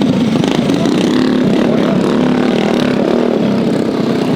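Small mini bike engine running at a steady, slightly wavering speed.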